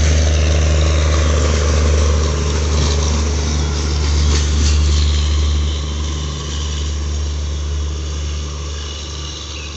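Express passenger train's coaches rolling past on the track: a steady low rumble with wheel clatter. It fades over the last few seconds as the rear coach goes by and the train pulls away.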